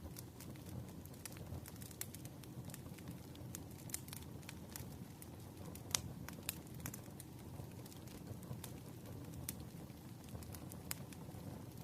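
Wood fire crackling: irregular sharp pops and snaps over a steady low rush, with the loudest pop about halfway through, mixed with rain.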